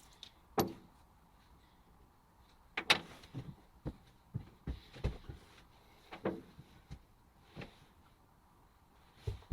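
A series of irregular knocks and clunks, about ten in all, with the loudest about three seconds in; no machine is running.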